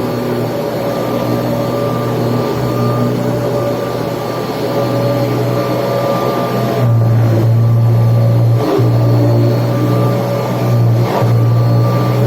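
Kirby Tradition upright vacuum cleaner running steadily while vacuuming, a loud even motor hum that grows louder about seven seconds in, with a few brief dips near the end.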